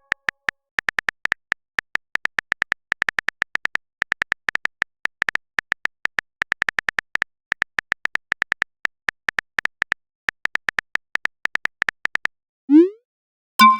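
Keyboard-typing sound effect of a chat app: short, high beeps of one pitch, several a second at an uneven, typing-like pace, one per character as a message is typed out. Near the end the beeps stop and a short rising swoop follows.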